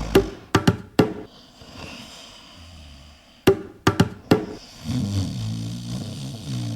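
A dog snoring in long, low breaths, one near the start and another over the last two seconds. Sharp percussive clicks fall in two clusters, about four in the first second and four more from about three and a half seconds in.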